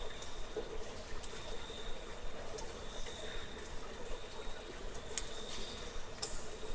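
Cave ambience: a steady high-pitched tone with a lower hum beneath, and scattered sharp clicks and ticks throughout.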